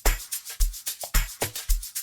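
Electronic dance music from a DJ mix, mostly percussion: a deep kick drum about twice a second with crisp hi-hat and shaker ticks between the kicks.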